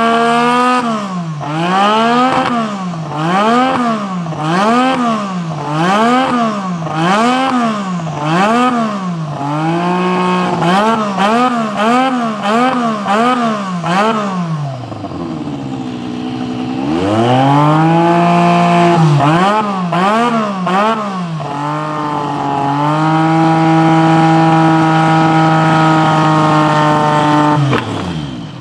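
Honda RA166E 1.5-litre twin-turbo V6 in a Williams FW11 Formula 1 car, stationary and being blipped: the revs rise and fall about once a second, then quicker. It drops back low, then is held at higher revs with a steady note and stops suddenly near the end.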